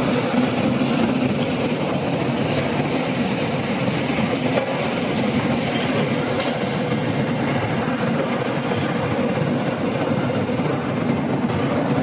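Steady, loud industrial machinery noise: a continuous mechanical drone with a low hum and no single event standing out.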